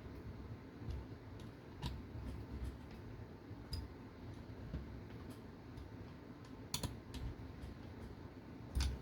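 Faint, scattered light clicks and ticks of small screws and hand tools being handled on a plastic RC car chassis while a bracket is screwed on.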